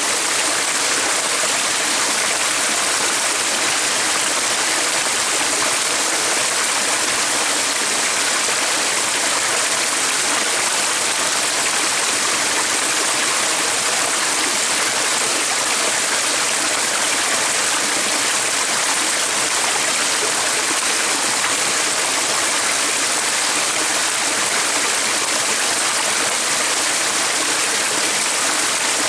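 Flowing water of a stream, a steady unbroken rush of water noise.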